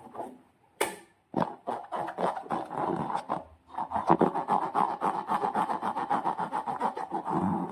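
Slime being squeezed and kneaded by hand: a run of rapid, squishy crackling clicks, with a sharp snap about a second in and a short pause halfway through.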